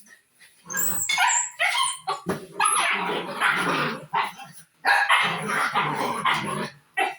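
Dog barking and yipping: a few short yips, then two long runs of rapid barking.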